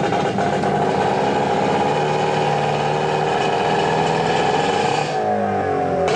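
A vehicle engine running steadily, its pitch dropping about five seconds in.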